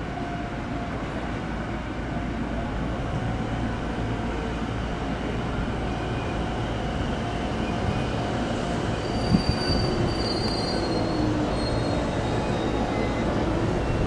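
Sotetsu Line electric train moving through the station: a steady rumble that grows gradually louder, with thin high squealing tones from the wheels coming and going in the second half and a single sharp click about nine seconds in.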